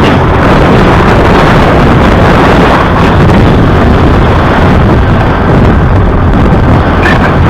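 Steady, loud wind rumble on the microphone from riding a moving motorbike, mixed with vehicle noise.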